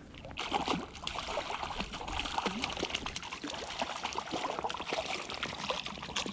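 Creek water splashing and gurgling, with many small splashes, as a hooked wild brown trout is played at the surface.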